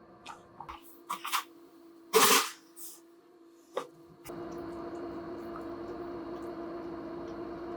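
A few handling clicks and knocks, the loudest a short rushing burst about two seconds in. From about four seconds in, a steady hiss with a constant hum runs until it cuts off suddenly at the end.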